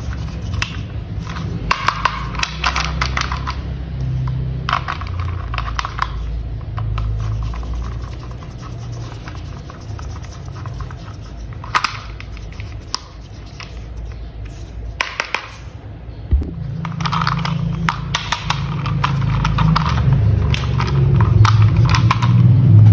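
Plastic toy parts clicking and rattling as they are handled and fitted together, in clusters of quick clicks, over a low continuous hum.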